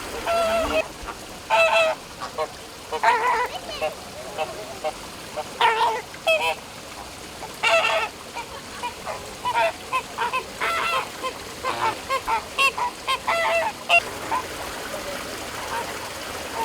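Flamingos honking: many short, repeated calls, some overlapping, coming in clusters with brief gaps and busiest in the second half.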